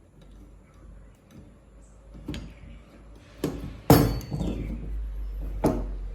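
Metal router parts clinking and knocking as they are handled and set down: four sharp knocks, the loudest about four seconds in with a short ring after it.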